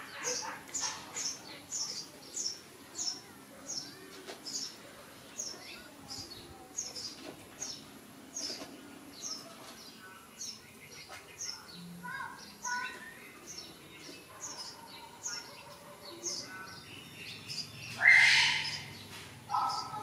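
A bird chirping over and over in short, high, falling notes, about three every two seconds. Near the end comes one much louder rising sound.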